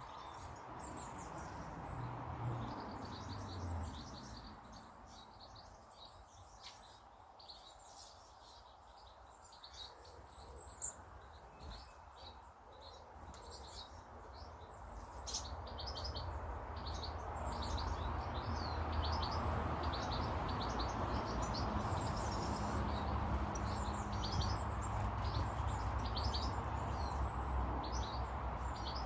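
Small garden birds chirping, many short high calls one after another. A low rumbling noise underneath grows louder about halfway through.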